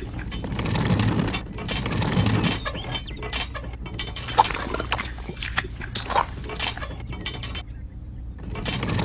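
Small geared mechanism clicking and clattering irregularly, over a steady low hum.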